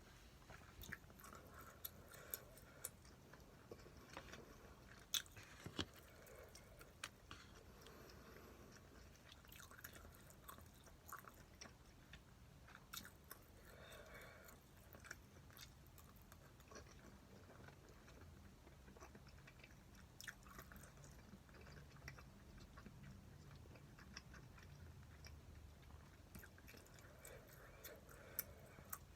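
Faint chewing of stir-fried pork, with soft mouth sounds and scattered small clicks.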